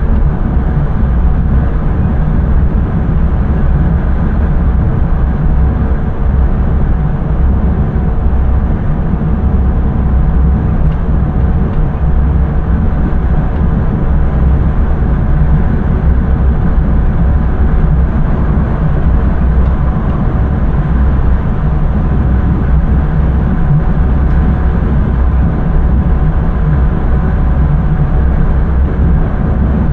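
Steady low rumble of an intercity train running along the line, heard from the driver's cab, with a few faint constant humming tones over it.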